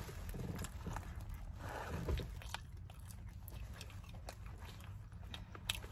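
A person chewing food close to the microphone: soft wet mouth clicks and smacks scattered throughout, with a brief faint hum of the voice about two seconds in.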